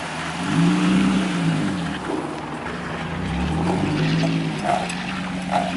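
Drift car's engine running at low revs, its pitch rising and falling a few times, over steady road and wind noise.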